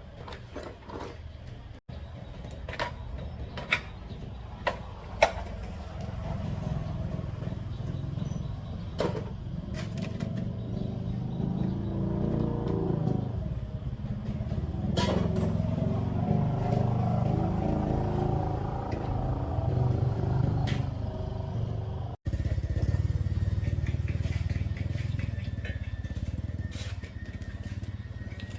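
A small engine running steadily with a low rumble, picking up a little in the middle. A few sharp clicks and knocks come in the first seconds before it settles.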